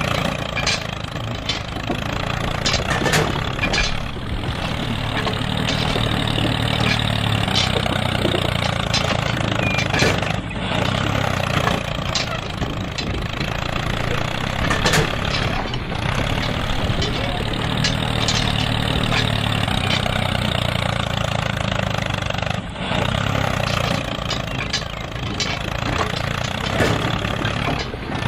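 An engine idling steadily, with scattered clicks and knocks over it.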